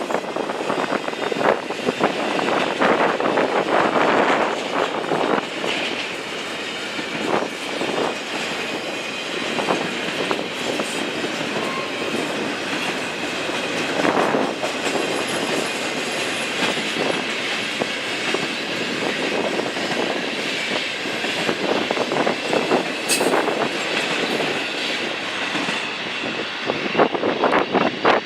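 A train's cars rolling past with steady rumble, the wheels clicking over rail joints and squealing now and then.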